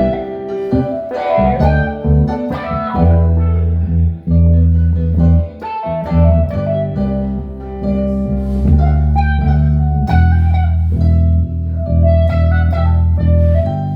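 Instrumental jam: guitar playing plucked notes over long held low bass notes.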